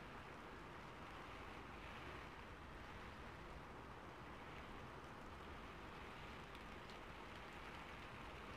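Steady, faint rainfall with a few sharper drips about three quarters of the way through.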